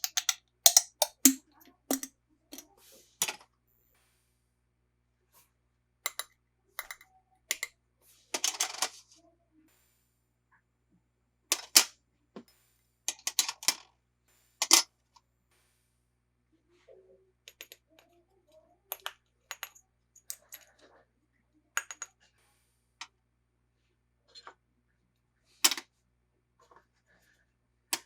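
Small hard plastic toy pieces and packaging being handled: irregular sharp clicks and taps, with a brief rustle about eight seconds in.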